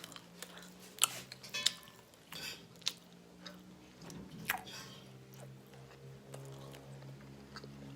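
Someone eating close to the microphone: quiet chewing with a few sharp clicks scattered through the first half, over a faint steady low hum.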